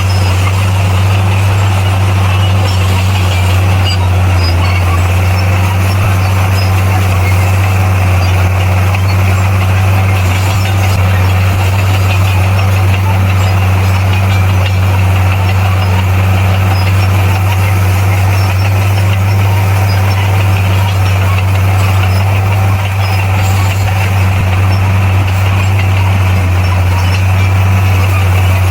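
Diesel engine of heavy earth-moving equipment running steadily at a constant speed, a loud, even low hum with no changes in pitch or level.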